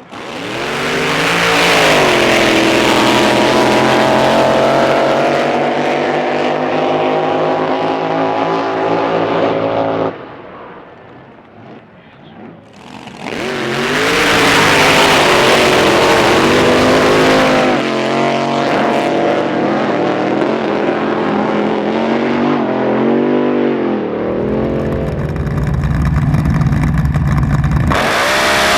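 Racing drag boat engines at full throttle. The first pass rises in pitch at launch, holds at a high steady pitch and cuts off suddenly about ten seconds in. After a short lull a second boat runs loud and steady, its pitch dipping and rising near the end, before giving way to a lower, steadier engine rumble.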